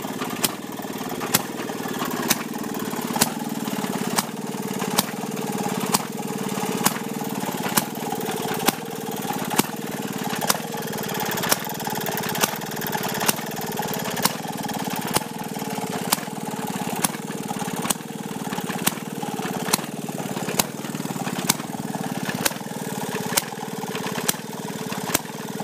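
Antique Maytag gasoline washing-machine engine running steadily, its note sagging and picking up again in an even cycle, with a sharp crack about once a second.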